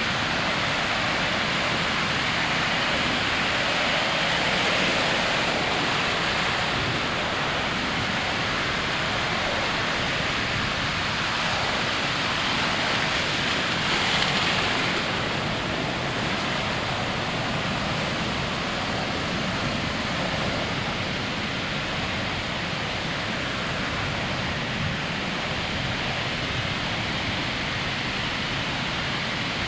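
Ocean surf breaking on a sandy beach: a continuous wash of waves, swelling a little about five seconds in and again about halfway through.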